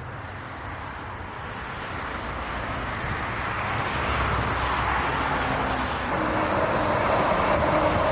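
Jet airliner approaching to land, its engine noise growing steadily louder, with a steady whine coming in over the last few seconds.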